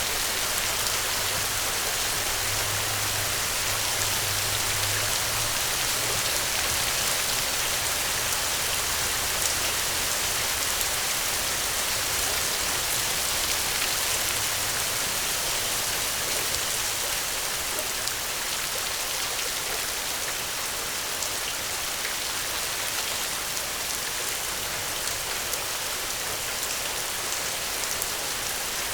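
Steady rain falling, a dense even hiss of drops striking a surface.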